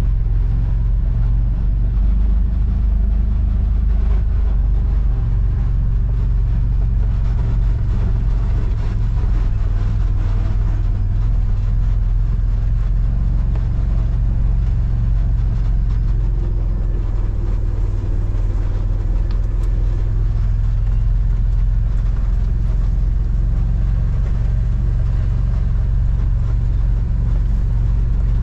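Steady low rumble of a vehicle's engine and tyres while driving, even in level throughout.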